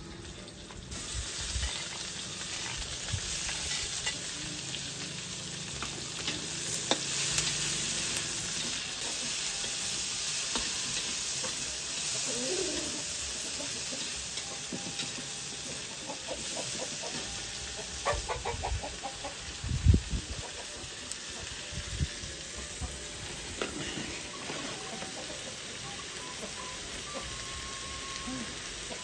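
Chopped chilies, tomatoes and shallots sizzling as they fry in a steel wok, stirred with a metal spatula; the sizzle starts about a second in. A few sharp knocks of the spatula against the wok come about two-thirds of the way through.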